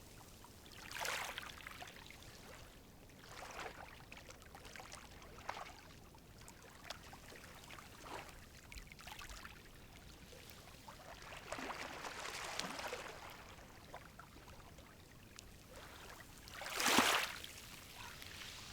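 Calm sea waves gently washing onto the shore, a soft swell every few seconds over a low steady hiss, the largest wash near the end.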